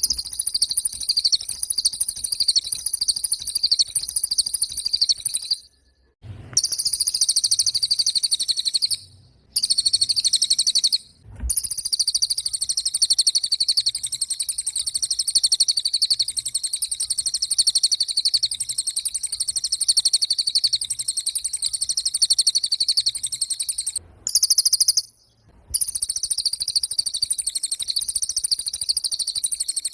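Cililin bird singing vigorously (gacor): a high, very rapid trill that runs on almost without a break, stopping briefly a few times.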